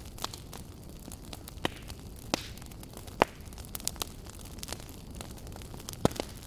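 Wood fire burning in a fireplace: a steady low rumble of the flames with irregular sharp crackles and pops, the loudest pops at about one and a half, two and a half, three and six seconds in.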